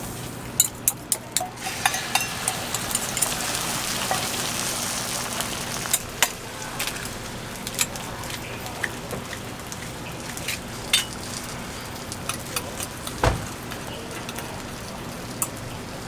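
Food sizzling on a flat griddle: a steady hiss, strongest in the first few seconds, with scattered sharp clicks and taps throughout.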